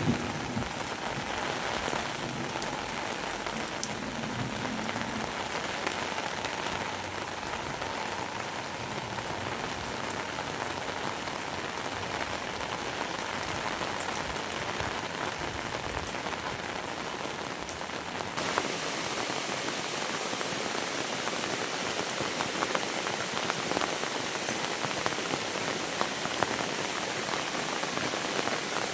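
Heavy rain falling steadily and hissing on surfaces. About two-thirds of the way through it becomes slightly louder and brighter, with many sharp close drop hits.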